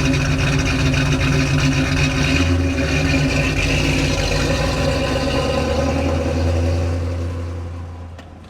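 1975 Pontiac Trans Am's 455 V8 with headers running steadily, its note turning deeper about two and a half seconds in, then fading away over the last second or so.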